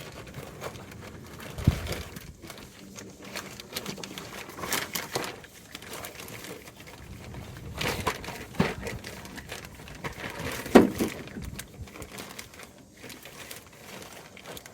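A bag rustling and crinkling as it is rummaged through, with scattered clicks and knocks from the grease gun being handled. A sharper knock comes near the eleven-second mark.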